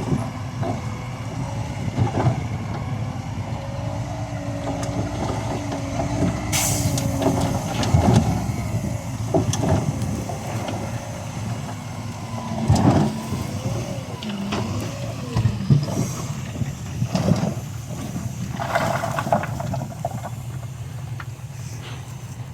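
Heavy diesel construction machinery working: a steady low engine rumble with scattered metallic clanks and wavering squeals. A short sharp air hiss comes about six and a half seconds in.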